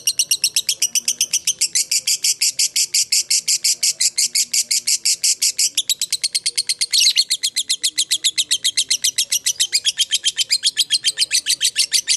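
Lovebird giving a long ngekek: a fast, unbroken chattering trill of sharp, high notes, about eight a second, with one louder, harsher note about seven seconds in.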